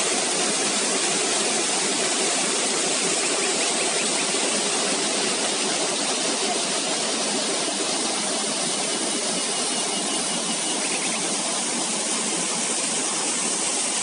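Steady rushing of a fast mountain river or waterfall close by, an even, unbroken roar of water.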